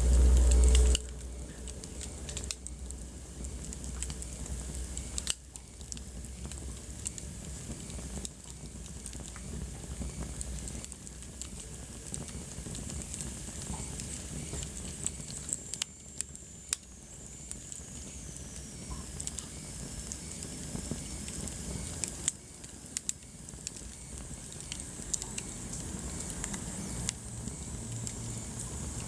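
Wood fire burning in a fireplace: a steady low rumble and hiss with scattered sharp crackles and pops. There is a heavy low rumble in the first second, and a faint high whistle falls in pitch about halfway through.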